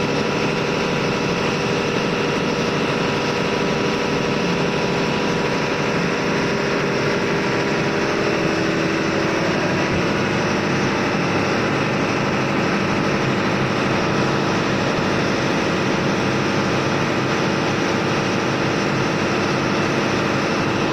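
Steady, loud drone of diesel machinery running in a ship's engine room, its tone shifting slightly about nine seconds in.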